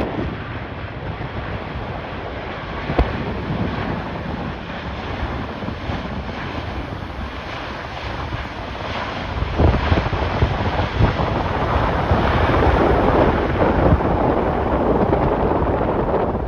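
Strong gusty wind buffeting the microphone: an even rushing noise that grows louder in gusts about ten seconds in.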